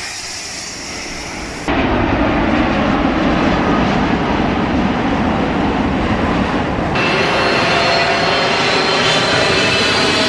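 Jet airliner engines running loud at close range: a quieter rushing noise first, then the roar jumps up about two seconds in, and a high whine joins it about seven seconds in.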